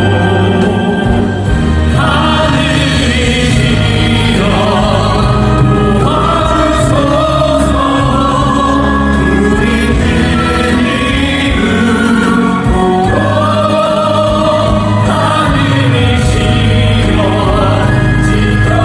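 Choral music: a choir singing long held notes over steady instrumental accompaniment.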